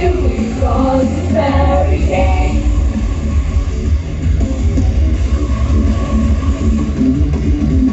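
Loud heavy rock music played live, with a singer's voice over it for the first couple of seconds, then instrumental with a heavy, driving low end.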